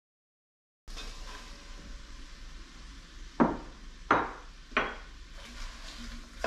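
Sliced red onions being added to a hot cast iron pot over tomato paste: a faint sizzle, then three sharp knocks of a utensil on the pot, about two-thirds of a second apart, near the middle.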